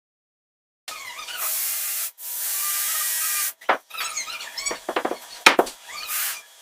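Two long bursts of hissing spray, broken by a brief pause, followed by a run of sharp knocks, clicks and squeaks.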